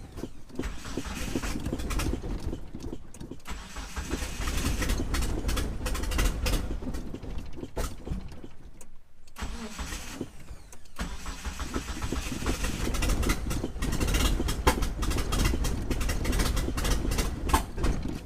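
A 1997 Mitsubishi Eclipse GSX's turbocharged 4G63 four-cylinder being cranked over on the starter in three long runs with short pauses between them, without starting. This is the crank-no-start fault, which the owner suspects lies in cam-sensor timing or in the mismatch between the 95 ECU and the 96 cam sensor.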